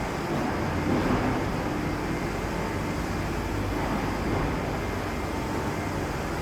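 Steady hum and noise of machinery on a print-factory floor, with a few faint steady tones in it and no distinct knocks.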